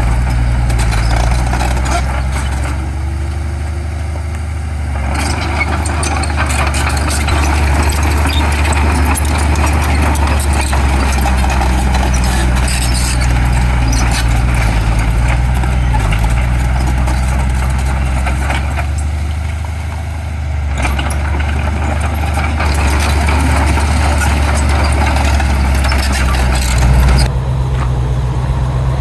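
Heavy diesel engines of earthmoving machinery running, a steady low rumble with mechanical noise over it. The noise eases off briefly twice, and there is a short louder bump near the end.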